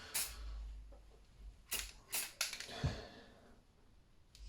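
Aerosol spray paint can giving several short bursts of spray, each a quick hiss, a coat of blue paint going onto a small diecast car body.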